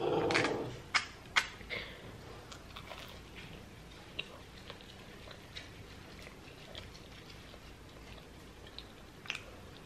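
Biting into and chewing a fried vegetable samosa: a few crisp crunches in the first second and a half, then quieter chewing with small wet mouth clicks.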